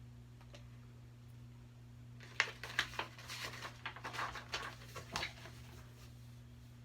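Paper rustling and brushing for about three seconds, starting a couple of seconds in: a picture-book page being turned. Under it runs a steady low electrical hum.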